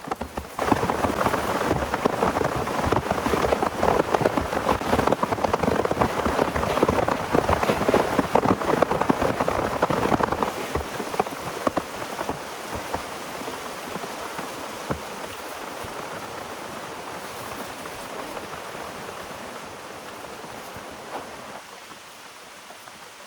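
Heavy rain falling and striking a surface, a dense hiss full of fine drop ticks. It is loudest for the first ten seconds or so, then eases to a quieter, steadier fall.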